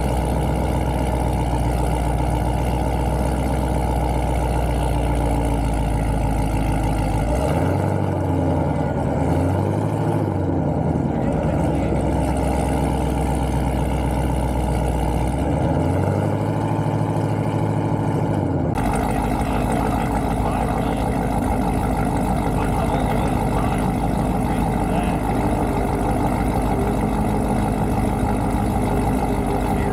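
A car engine idling, revved up and let back down a few times in the middle, then idling on.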